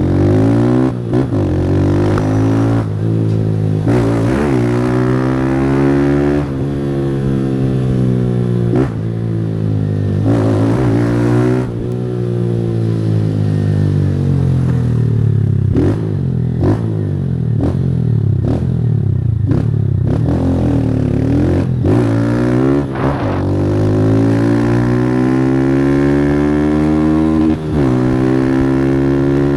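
Single-cylinder 160 cc motorcycle engine with a Fortuna Trioval aftermarket exhaust, accelerating hard through the gears. The revs climb and fall back again and again at each gear change, with short clatters between pulls.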